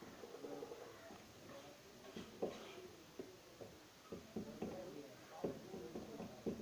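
Irregular light taps, clicks and scratching, as of doves moving about and working twigs into a nest.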